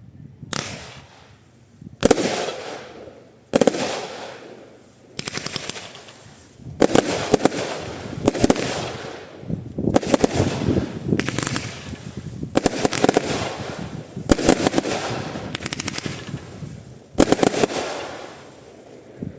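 Lesli 'Biggest Momma' firework firing shot after shot, about a dozen in all, each a sharp bang followed by about a second of crackling.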